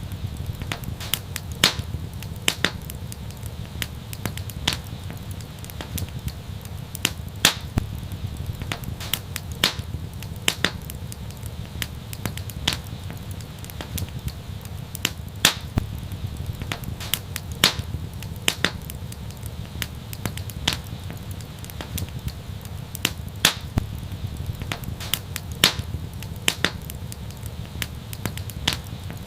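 Wood fire burning in an outdoor fireplace: a steady low rumble of the flames with frequent sharp crackles and pops, a few of them louder.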